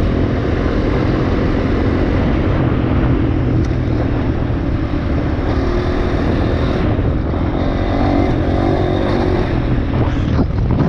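Dirt bike engine running under way on a trail, steady and loud, with a brief drop in engine sound near the end.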